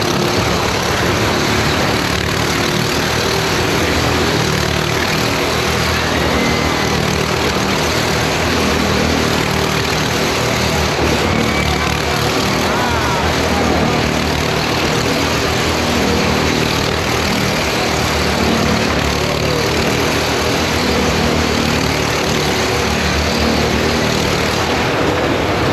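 Motorcycle engine running loud and steady without a break as a rider circles the Wall of Death.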